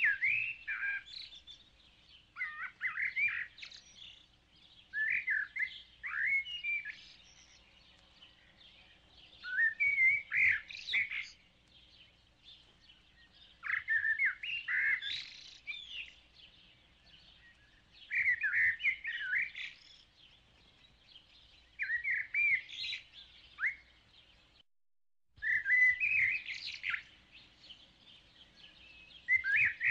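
Songbird singing, short chirping phrases repeated every few seconds.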